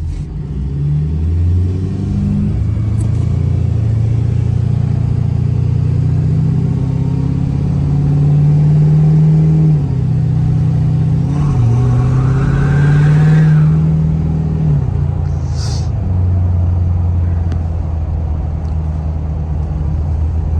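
Turbocharged pickup truck engine pulling up through the gears, heard from inside the cab: its pitch climbs, drops at a shift about halfway through, climbs again with a rising turbo whine, then settles to a steady cruise.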